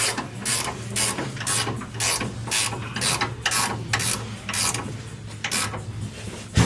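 Socket ratchet wrench working a nut, its pawl clicking in short bursts about twice a second over a steady low hum.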